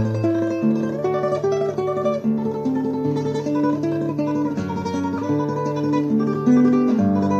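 Solo classical guitar playing a tremolo passage: rapid repeated treble notes over a bass line that changes every second or two.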